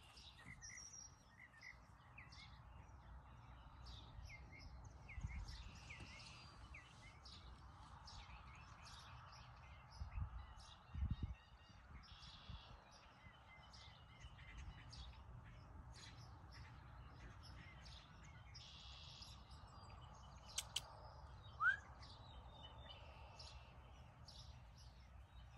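Songbirds chirping and calling over a faint low rumble of outdoor air, with a few brief low thumps. A short rising chirp near the end is the loudest call.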